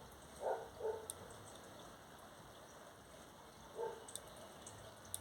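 A dog barking faintly, three short barks, over a low steady hiss.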